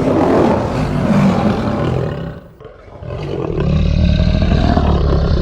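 Lion roaring: two long, deep roars, the second beginning about three seconds in.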